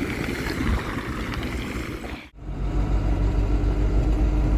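Truck engine and road noise heard from inside the cab, a steady low rumble. It breaks off sharply a little over two seconds in and resumes as the same steady rumble.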